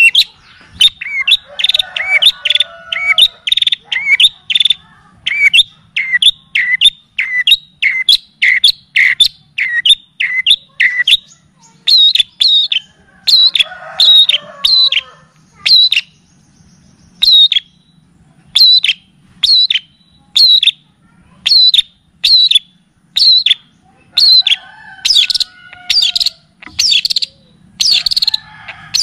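Songbird recording of a small bird calling a long series of sharp, loud chip notes, about two or three a second. The notes change shape about twelve seconds in and pause briefly near the middle. A softer twittering bird is heard underneath now and then.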